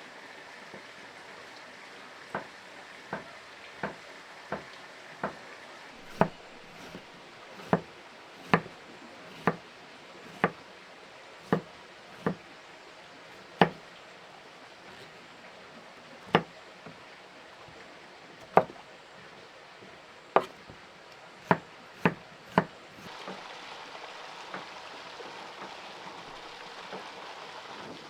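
A series of sharp knocks, strike after strike at roughly one a second with some longer gaps, some much louder than others. They stop a little past two-thirds of the way through, and a steady rushing hiss comes up.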